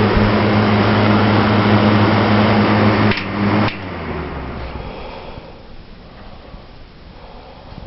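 Vintage all-metal Zero box fan running at its single speed, its original motor humming under a rush of air, with freshly oiled bearings and no squeak. About three seconds in it clicks off, and the motor and blades coast down and fade away.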